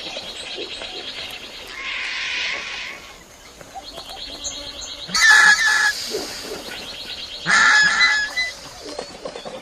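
Bird calls: two loud honking calls about five and seven and a half seconds in, over a fast, high, repeated trill.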